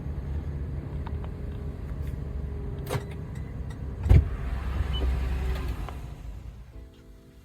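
2020 Toyota 4Runner's V6 engine idling after being remote-started, with a click and then a louder thump partway through. The rumble fades near the end as music comes in.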